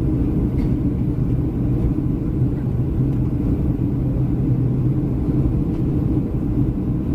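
Steady low rumble inside the passenger cabin of a Boeing 737-300 on final approach: engine and airflow noise with a constant low hum.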